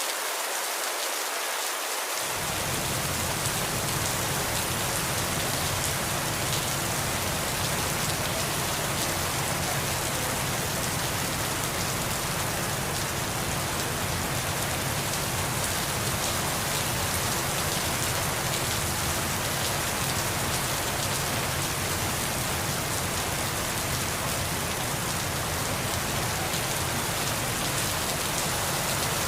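Steady gentle rain falling, an even hiss of many drops with no thunder. About two seconds in, a deeper low rumble joins the rain and stays.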